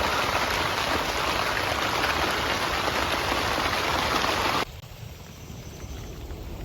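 Heavy rain falling, a steady dense hiss, which cuts off abruptly about four and a half seconds in to a much quieter low background.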